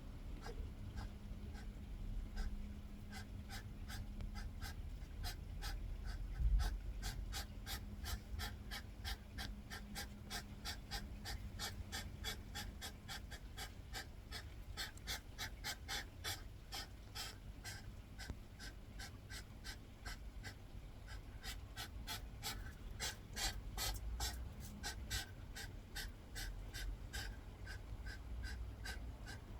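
Hedgehogs huffing: a long, even run of short breathy puffs, about four a second, as they square up to each other over territory.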